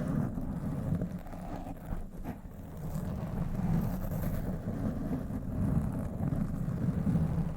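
A microphone being scratched directly, a continuous dense scratchy rumble that swells and eases with scattered small clicks.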